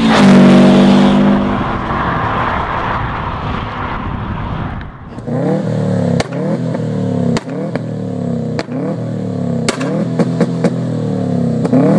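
Turbocharged Subaru Impreza WRX STi flat-four engine: first a loud pass with a held engine note that turns into rushing noise, then, after a cut about five seconds in, repeated free revs about one a second. Each rev is punctuated by sharp pops and bangs from the exhaust.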